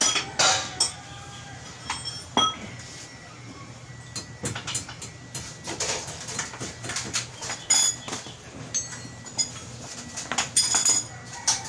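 Metal hand tools and parts clinking and tapping against each other in an irregular series of sharp, ringing clinks, during work on a car's steering rack end.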